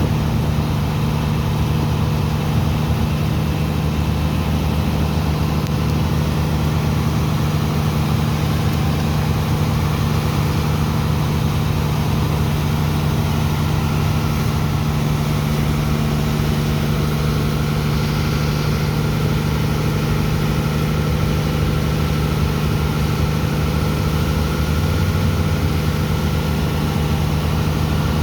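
Heavy engine of a sand-dredging pump machine running steadily at a constant speed, a loud, even low drone.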